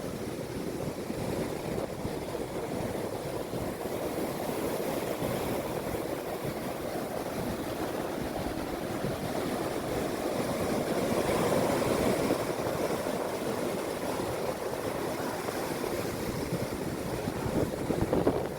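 Sea waves washing onto the shore in a steady rush, swelling louder about twelve seconds in and again near the end.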